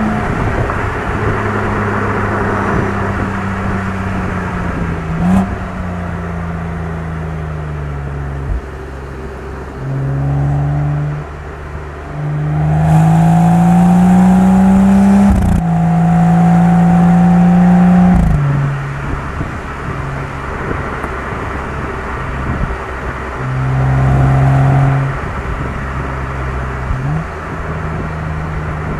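BMW M135i's turbocharged 3.0-litre inline-six and exhaust under hard acceleration. The engine pitch climbs through a gear and drops sharply at each upshift. The loudest pulls come about halfway through and again near the end, with quieter steady running in between.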